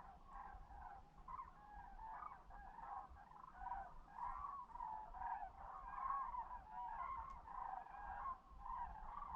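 A large flock of birds calling together: many short calls overlapping continuously in a steady chorus.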